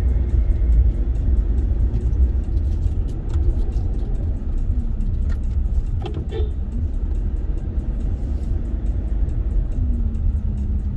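Steady low rumble of a moving vehicle: engine and road noise, with a few faint clicks and rattles.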